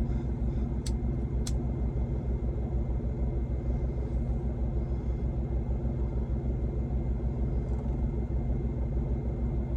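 Heavy truck's diesel engine idling, a steady low rumble with an even pulse. Two short clicks about a second in.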